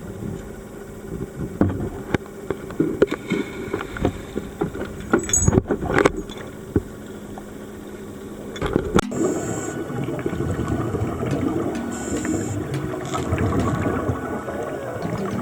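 Knocks and water sloshing at the surface, then about nine seconds in the sound changes abruptly to a muffled underwater bubbling with a short hiss every two to four seconds, the sound of a scuba diver breathing through a regulator and exhaling bubbles.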